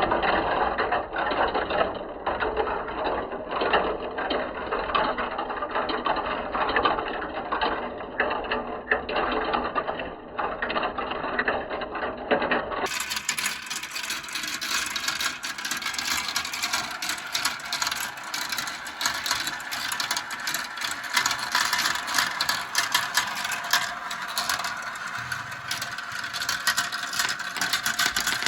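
Many marbles rolling and clattering down a plastic marble-run track, a dense stream of rapid clicks. About halfway through, the clatter changes suddenly to a thinner, brighter sound.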